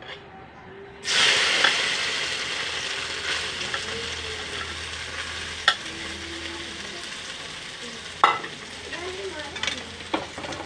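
Boiled, chopped soya chunks hit hot oil in a metal kadhai and start frying with a loud sizzle that begins suddenly about a second in and slowly dies down. Two sharp knocks come partway through.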